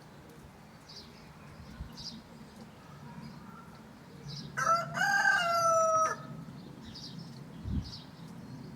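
A rooster crowing once, a loud call of about a second and a half about halfway through that sags in pitch at its end, over faint small-bird chirps repeating about once a second.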